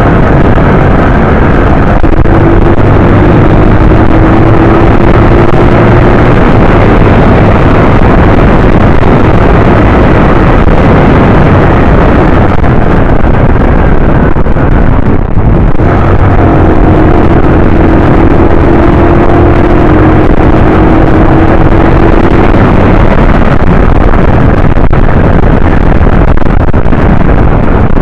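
125cc motorcycle riding on the road: a loud, steady rush of wind on the microphone over the engine, whose pitch climbs slowly twice as the bike accelerates.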